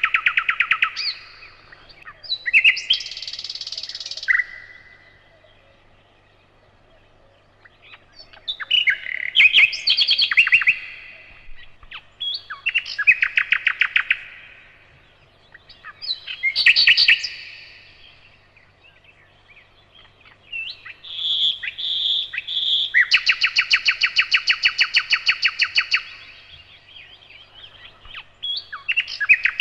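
Nightingale singing: short phrases of fast repeated notes separated by pauses of a second or two, with one long rapid trill about three-quarters of the way through.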